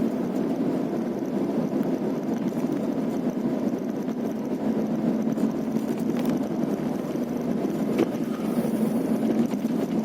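Steady engine and road noise from a vehicle driving along a potholed road, with a few short sharp knocks, the clearest near the end.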